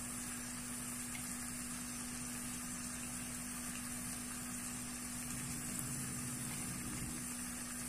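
Onion-tomato masala sizzling softly in oil in a steel kadhai, a steady hiss, with a steady low hum underneath.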